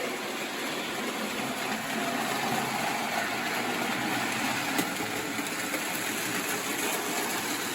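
Prewar O-gauge toy train running on three-rail track: a steady whirring rumble of the electric motor and metal wheels rolling over the rails.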